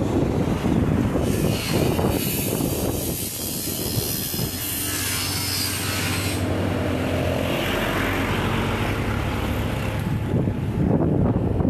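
A vehicle's engine running steadily under heavy wind rumble on the microphone, as from a moving vehicle. A rushing hiss in the first half fades out about six seconds in.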